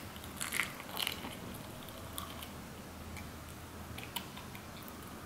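A person biting and chewing a piece of paella close to the microphone, with a few sharp crunchy clicks about half a second and a second in, then softer chewing with occasional ticks.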